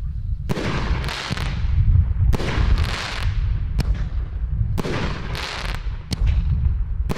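Armed Forces 500-gram fireworks repeater cake firing: a string of sharp bangs about a second apart, each trailing off in a fading hiss, over a steady low rumble.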